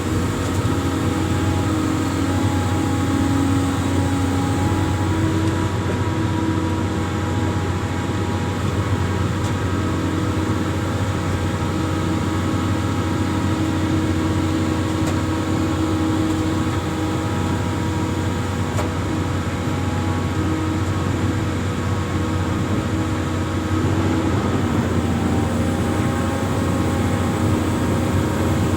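Amphibious excavator's diesel engine running steadily with a constant hum, its note shifting about 24 seconds in.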